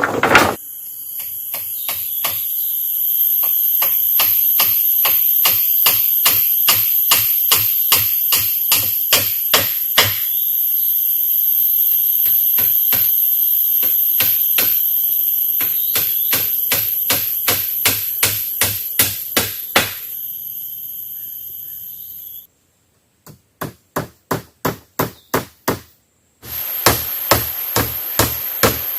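A long series of sharp tool strikes, about two a second, typical of hammering or chopping during shelter building. The strikes stop for a moment and resume in a few short runs near the end. A steady high-pitched insect drone runs underneath.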